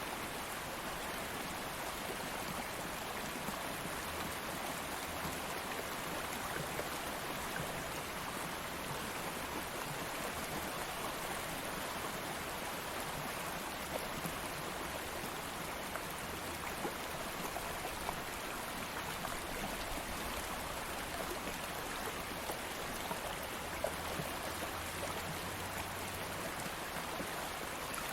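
Stream water flowing steadily over rocks, an even rushing with small scattered splashes and drips.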